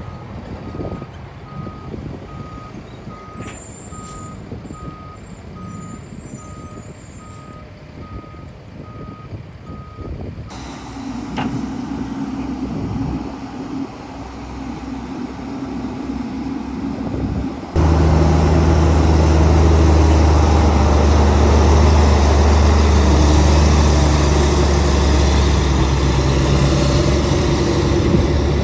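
A heavy construction vehicle's reversing alarm beeping at an even pace, about one and a half beeps a second, over a diesel engine running; the beeping stops about ten seconds in. Near two-thirds of the way through a much louder diesel engine comes in suddenly and runs steadily.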